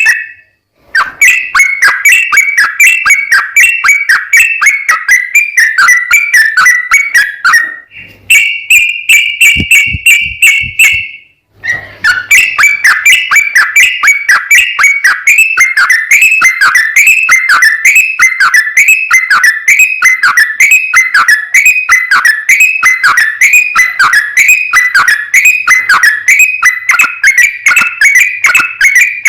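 Yellow-vented bulbul (trucuk) singing a fast, continuous run of loud whistled notes, several a second, with two short breaks in the first half.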